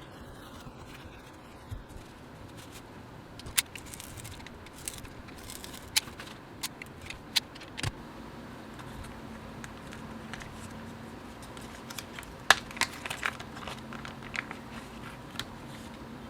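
Irregular sharp clicks and snaps of small keyboard parts being handled during assembly of a mechanical keyboard kit, in two clusters, over a faint steady hum.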